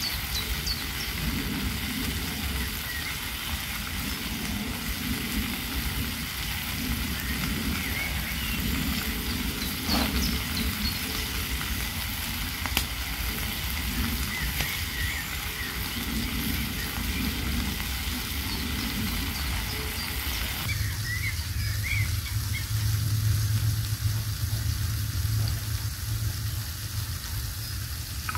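Food sizzling in a frying pan over a wood fire, a steady frying hiss. About 21 seconds in the hiss drops and a steady low hum takes over.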